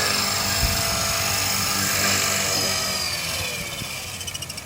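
450-size flybar RC helicopter's electric motor and rotor whining steadily, then falling in pitch and fading over the last second or two as it spools down after the flight.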